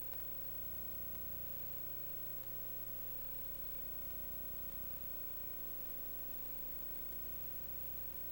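Steady electrical hum and hiss with a faint constant tone, unchanging throughout; no other sounds.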